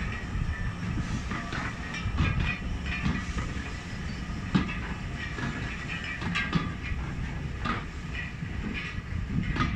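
A train of teak-bodied LNER passenger coaches rolling past at low speed: a steady rumble of wheels on rails, with sharp clicks from the wheels passing over the rail joints.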